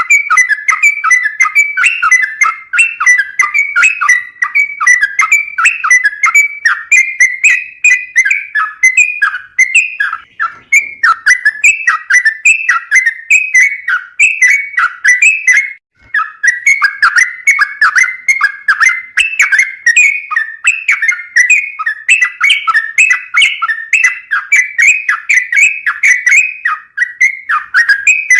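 Yellow-vented bulbul (trucukan) singing continuously in rapid, bubbling, repeated whistled phrases, with one short pause about halfway through.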